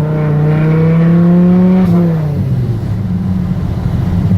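Hennessey-modified Dodge Viper V10 accelerating hard under full throttle: the engine note climbs steadily, drops sharply with an upshift about two seconds in, then pulls on at lower revs with a rougher exhaust note.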